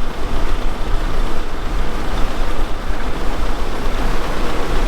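Loud, steady noise of a farm vehicle running, strongest in the low end, with no distinct events.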